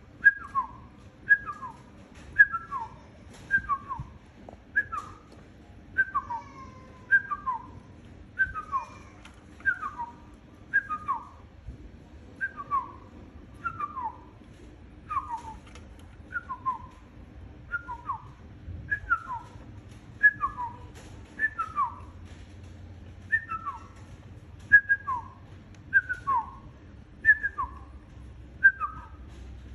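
A short whistled phrase, a high note falling to a lower one, repeated steadily about every second and a bit: a whistle-training tune for teaching a pet bird to mimic.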